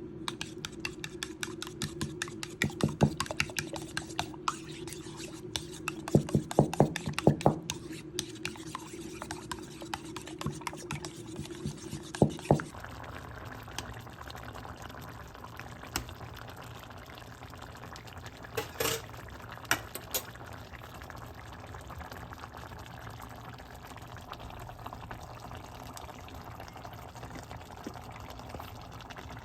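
Home cooking sounds: a quick run of utensil clicks and knocks over a steady hum, then, after a cut about twelve seconds in, a steady liquid hiss with a few scattered clicks.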